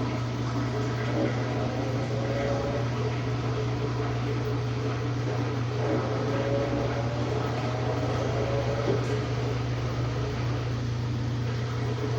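Samsung WA45T3200AW impeller top-load washer running mid-cycle, a steady low hum with a faint wavering whine over it.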